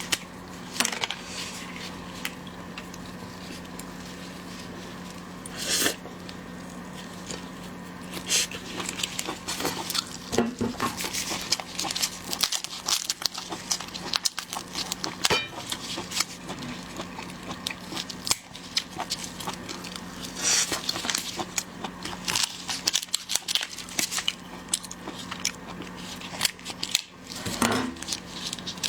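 Irregular cracking, crinkling and tearing as cooked king crab is broken apart and handled, with sharp shell cracks scattered throughout. A steady low hum runs underneath.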